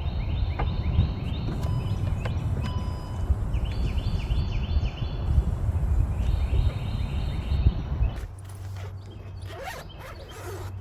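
Outdoor park ambience: wind rumbling on the microphone under runs of short, high, quickly falling chirps repeated several times. The wind rumble drops away abruptly about eight seconds in.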